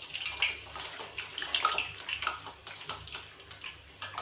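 Hot oil crackling and sizzling in a kadhai as steamed chicken momos fry on a low flame, an irregular patter of small pops.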